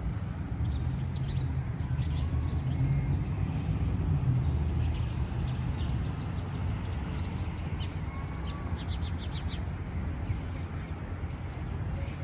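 Small birds chirping, with a quick run of short high chirps about two-thirds of the way through, over a steady low rumble.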